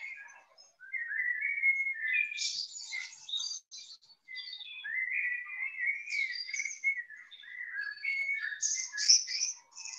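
Songbird singing: a run of varied phrases, mid-pitched notes mixed with higher twittering, broken by short pauses about half a second in and about four seconds in.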